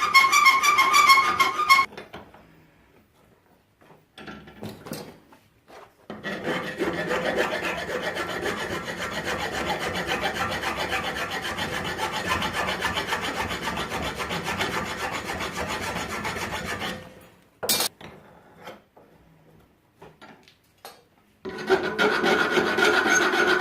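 Steel tong blanks being dressed to take off MIG weld burrs: a steady rasping of abrasive on metal lasting about eleven seconds, between scattered knocks. A higher, warbling sound is heard briefly at the start.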